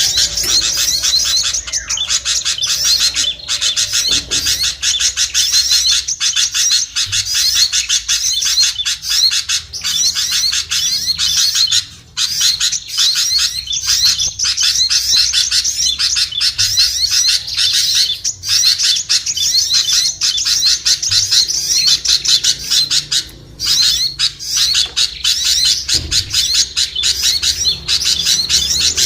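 Bird-lure recording of small songbirds chattering: a dense, continuous stream of rapid, high chirps, many notes a second, broken only by two brief pauses, about 12 and 23 seconds in.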